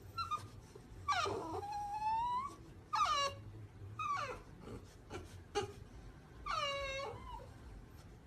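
French bulldog puppy whining: several high-pitched whines that drop in pitch, the longest about a second in and again near the end.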